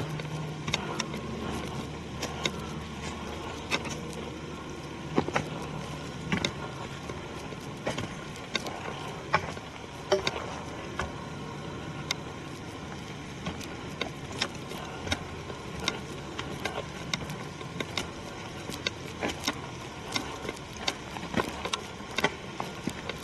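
Footsteps on a forest trail: irregular crunches and snaps of dry twigs and leaf litter, several a second at times, over a steady low rumble.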